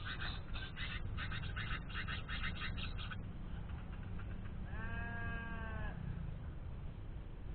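A bird chirping rapidly, about three high chirps a second, stops about three seconds in. About two seconds later comes a single bleat-like animal call lasting about a second, over a steady low hum.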